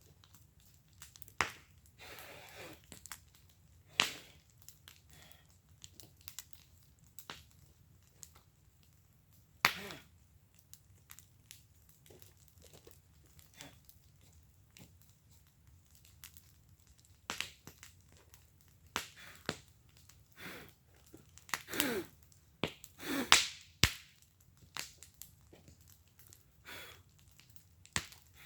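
Wood fire in a fire pit crackling, with irregular sharp pops and snaps from the burning wood and a louder run of pops about two-thirds of the way through.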